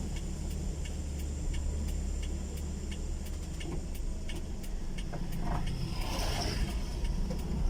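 Vehicle engines running on a steep uphill climb: a steady low drone.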